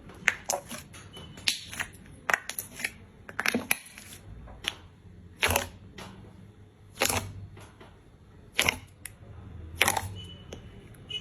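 Slime being squeezed and pressed by hand, giving sharp clicks and popping air pockets: a quick run of small crackles in the first half, then slower, fuller pops about every second and a half.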